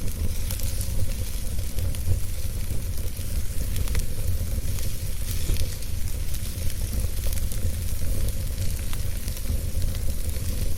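Wood fire burning in a fireplace, crackling steadily with many small sharp pops over a continuous hiss and low rumble.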